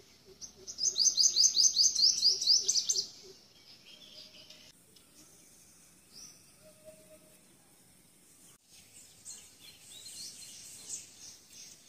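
Bird calling: a loud, fast run of short, descending high chirps for about three seconds near the start, then quieter, scattered chirping near the end.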